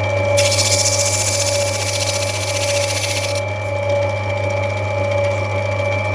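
Lapidary grinding wheel running steadily with a motor hum. From about half a second in until about three and a half seconds in, a loud hissing grind sounds as the opal is pressed against the wheel to take its top down.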